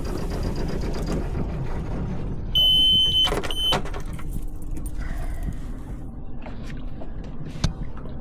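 A loud, high-pitched electronic beep that lasts about a second and is briefly broken in the middle, over a steady low rumble.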